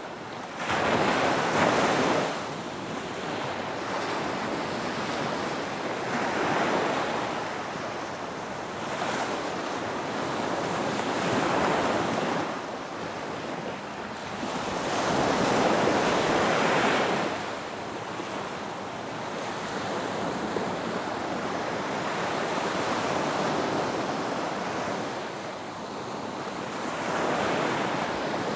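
Ocean waves breaking on a beach: a continuous wash of surf that swells and fades as each wave comes in, about every four to six seconds, with the strongest breakers just after the start and around the middle.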